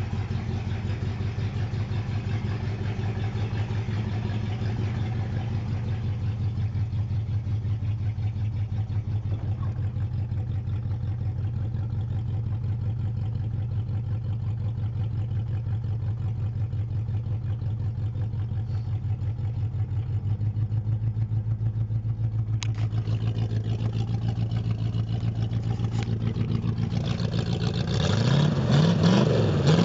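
1982 Camaro Z28's V8 running through a side-exit glasspack exhaust, idling steadily for most of the stretch, then revved up and down a few times near the end.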